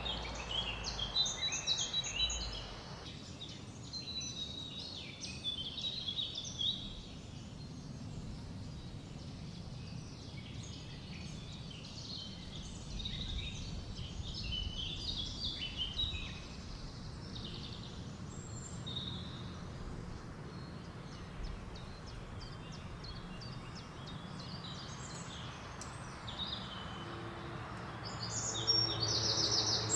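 Several songbirds chirping and singing over a steady low hiss of wind, with a louder rapid trill near the end.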